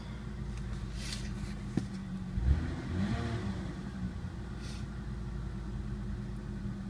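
2000 Ford Taurus's Duratec 24-valve DOHC V6 running at idle for an engine test, with a brief rise and fall in engine speed a little past two seconds in.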